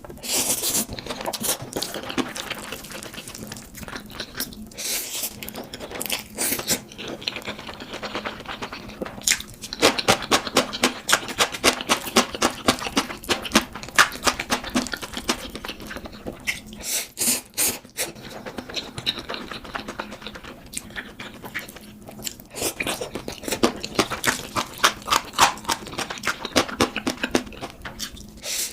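Close-miked eating: chewing and crunching, in dense runs of small wet clicks with louder clusters in several stretches.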